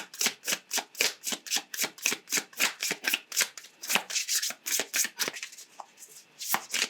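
Tarot deck being shuffled by hand, the cards slapping together in a quick even run of about six or seven strokes a second, then slowing to a few separate taps near the end.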